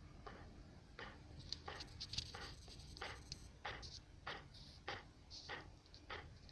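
A dog snoring faintly in short rasping breaths, about two to three a second. The owner wonders whether it is snoring or panting from the heat.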